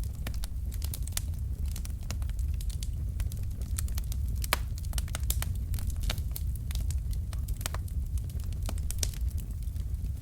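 Wood fire in a fireplace: burning logs crackling and popping in quick irregular snaps over a steady low rumble of the flames, with a sharper pop about halfway through.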